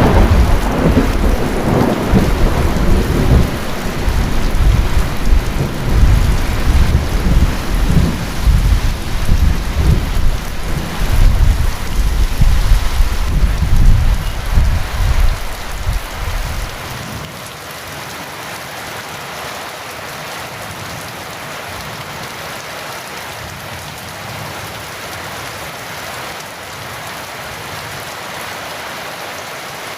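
Heavy rain falling steadily with a long rolling thunder rumble that fades out about seventeen seconds in, leaving only the steady hiss of rain.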